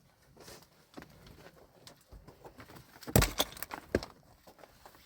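Faint scattered clicks, then a quick cluster of sharp knocks and clatter about three seconds in, and one more knock about a second later.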